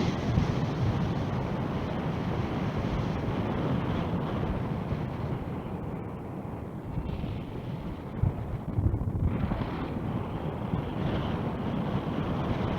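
Strong wind rushing and buffeting over the microphone during a paraglider flight, a gusty low rumble that swells and eases.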